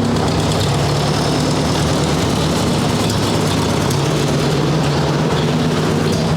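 1958 Ford 851 tractor engine idling steadily.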